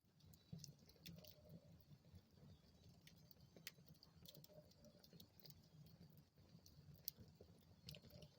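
Wood fire burning in a fireplace, heard faintly: irregular sharp crackles and pops from the burning wood, several a second, over a low steady rumble of the flames.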